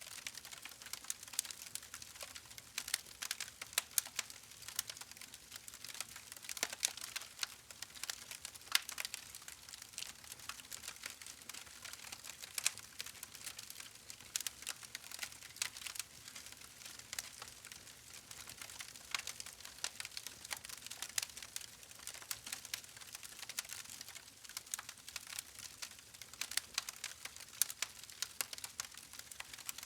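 Wood fire crackling: a steady stream of irregular sharp pops and snaps over a soft hiss of burning.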